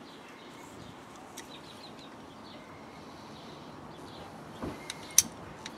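Faint outdoor background with scattered small bird chirps, a soft thump and one sharp click about five seconds in.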